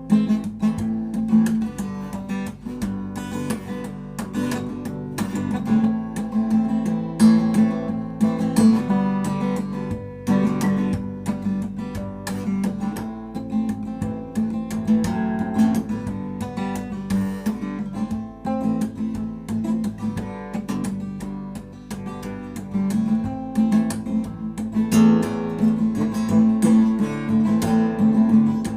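Acoustic guitar strummed steadily in quick, dense strokes, ringing chords throughout.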